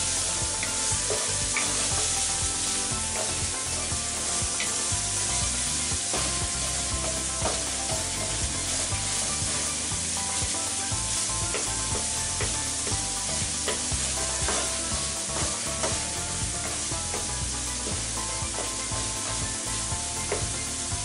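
Minced pork sizzling steadily as it fries in a non-stick frying pan, stirred and pushed with a wooden spatula that adds irregular light scrapes and taps.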